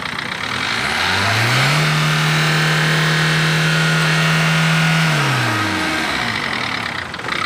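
Renault Duster engine revved from idle: the revs rise about a second in, hold steady for about three seconds, then fall back to idle.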